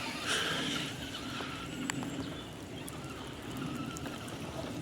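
Traxxas Slash 2WD electric RC truck driving, its motor a faint steady whine, with a brief hiss about half a second in.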